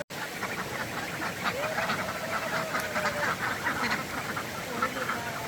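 A flock of ducks quacking in many short, overlapping calls, with one longer drawn-out call about a second and a half in.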